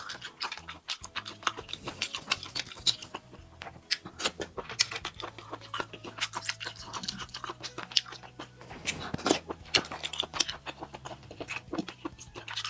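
Close-miked chewing of small abalone in chili oil: a dense run of quick, irregular mouth clicks.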